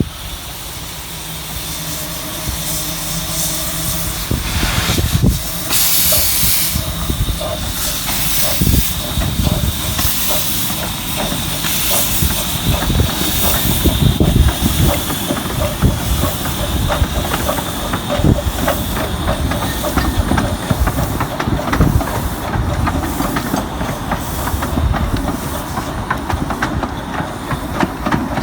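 Steam train on the move: a steam locomotive hissing, with louder bursts of steam, and the wheels clicking over rail joints, building up over the first few seconds.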